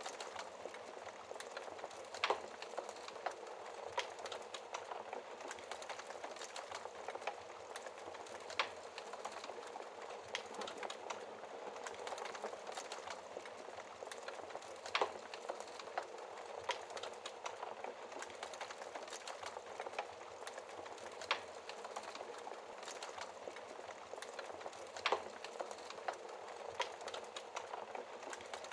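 Wood fire burning in a fireplace: a steady soft hiss with constant small crackles and a louder pop every few seconds.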